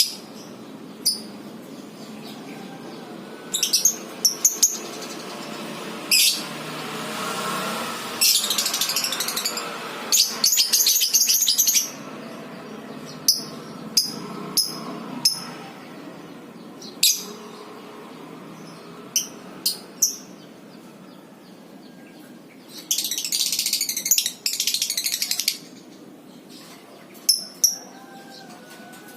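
Lovebirds calling: sharp, high chirps scattered throughout, with long, rapid chattering trills (the 'ngekek' song) a few seconds long, one in the middle and one near the end.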